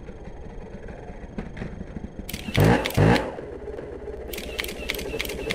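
Enduro motorcycle engine running, with two short, loud revs about halfway through, followed by a fast, even clicking.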